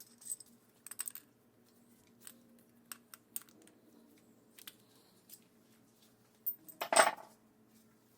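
Small metal parts and hand tools clinking and tapping as they are handled and set down, with a louder clatter about seven seconds in.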